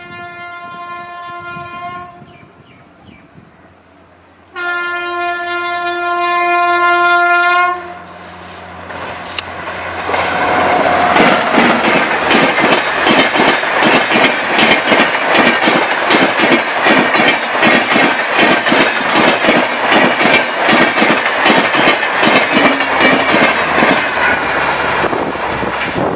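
WAP-7 electric locomotive sounding its horn twice, a two-second blast and then a louder, longer one, followed by an express train rushing past at speed, its wheels clattering rhythmically over the rail joints.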